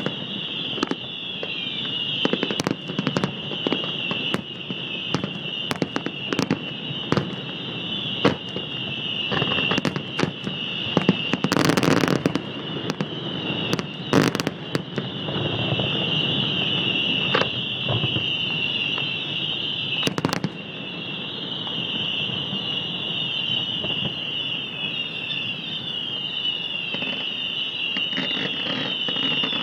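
Aerial fireworks bursting in a fireworks display: many sharp bangs, some in quick volleys, the loudest cluster about halfway through and another a few seconds later, then fewer bangs near the end. A steady high-pitched hiss runs underneath.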